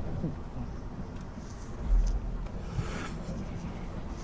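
Cabin noise inside a Taiwan Railways Puyuma (TEMU2000) tilting electric train at speed: a steady low rumble from wheels and running gear, with a low thump and a brief hiss about two seconds in.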